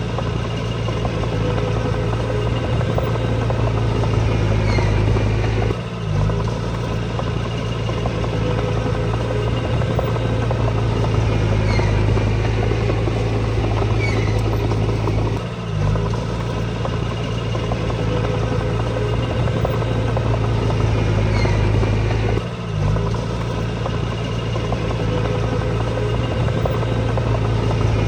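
Diesel engine of heavy earthmoving machinery running steadily with a deep, even hum, broken off briefly three times.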